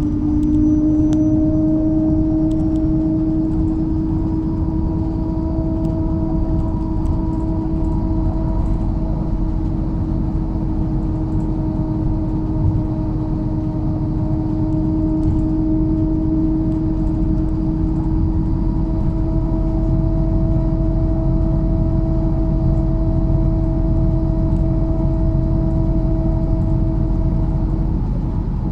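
MAZ-103 city bus driving at a steady speed: the engine and drivetrain give a low rumble with a steady whine over it. The whine stops a second or so before the end.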